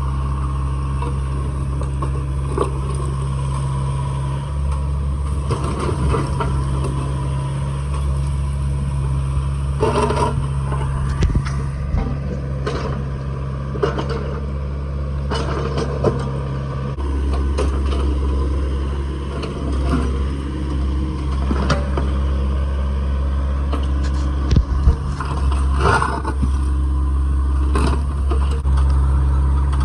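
Heavy equipment engine running steadily under load while broken concrete scrapes and clatters, with scattered sharp knocks of concrete chunks. The engine note shifts about halfway through.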